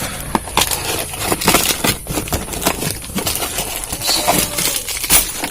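Irregular clicks, knocks and rustles of new shock absorbers and their packaging being handled.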